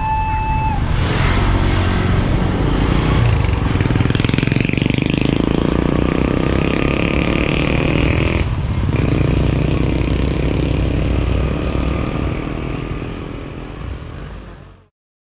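Railway level-crossing warning siren sounding a two-tone alternating alarm that stops just under a second in. A train then passes with a loud, continuous mechanical rumble, fading out over the last few seconds before cutting off abruptly.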